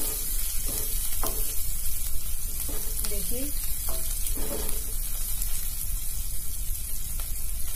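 Garlic, green chillies and cumin sizzling in hot oil in a metal kadhai as a wooden spatula stirs them, with a few clicks and scrapes of the spatula against the pan.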